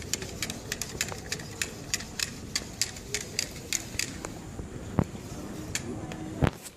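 Rapid, sharp mechanical clicking, about four clicks a second, that stops about four seconds in, followed by two louder single knocks over steady background hum.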